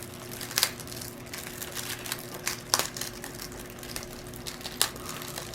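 Plastic packaging of a diamond painting kit crinkling and crackling as it is handled and pulled at, with a few sharp crackles scattered through.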